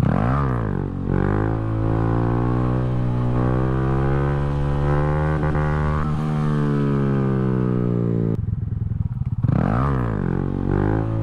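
A 2020 Honda Grom's single-cylinder 125 cc engine revving hard from a launch, climbing quickly through the first gear changes, then pulling at steady high revs. About eight seconds in the sound breaks off suddenly, and a second later the engine revs up again the same way.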